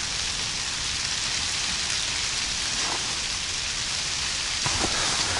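Steady even hiss of weather beating on an ice-fishing tent's fabric, with a couple of faint knocks.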